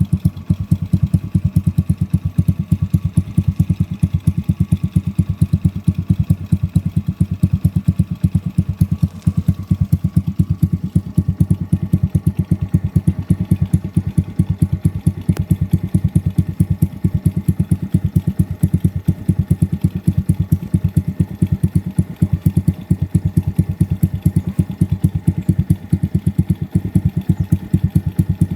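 Yamaha Vega R New's single-cylinder four-stroke engine, bored up to 123 cc, idling through a Ronin Katana SE aftermarket exhaust, with steady, even exhaust pulses.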